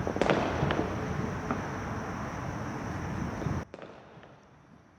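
Fireworks going off: a steady crackling rush with a few sharper bangs in the first second and a half, cutting off abruptly about three and a half seconds in.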